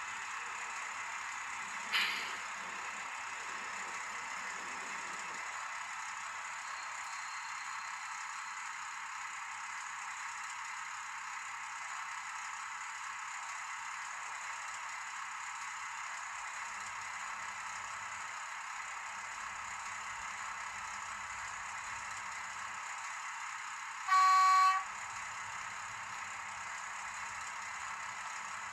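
One short diesel locomotive horn blast near the end, over a steady hiss, with a brief sharp click about two seconds in.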